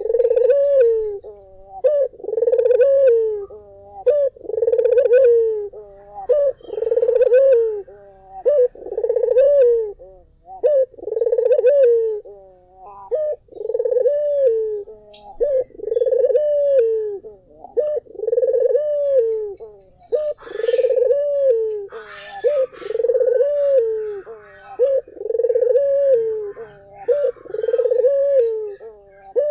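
Barbary dove (puter) cooing over and over, one rolling coo about every two seconds.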